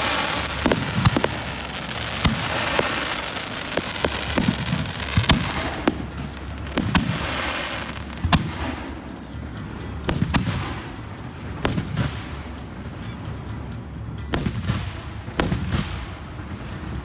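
Aerial fireworks shells bursting one after another, about fifteen sharp bangs spread over the stretch, with a dense crackle lingering after some of the bursts.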